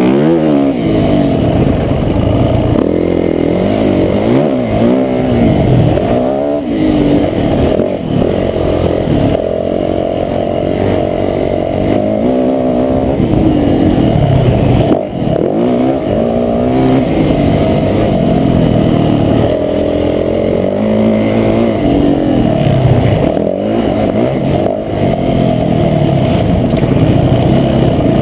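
Motocross bike engine recorded close up by an onboard camera, revving up and dropping back again and again as the rider accelerates, shifts and slows around the track.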